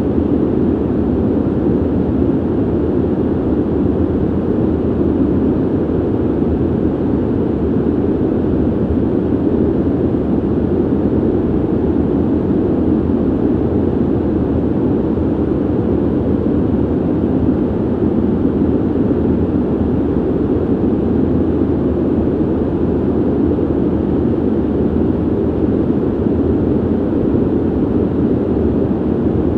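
Ventilation noise: a steady, even rush of air, deep and dull rather than hissy, with no change in level or pitch.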